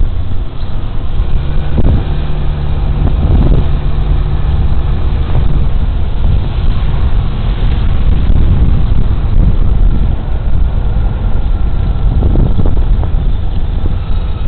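Loud wind rumble on a body-worn camera's microphone while riding a Suzuki Burgman Street 125 scooter, with the scooter's single-cylinder engine running steadily underneath and a few short knocks from road bumps.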